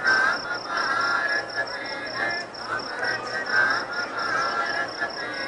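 Steady high-pitched chirping, pulsing about five times a second like a cricket, with voices in the background.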